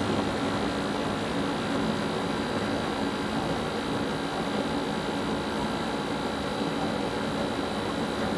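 A motor-driven fan running steadily, with a constant hum under a whirring rush of air.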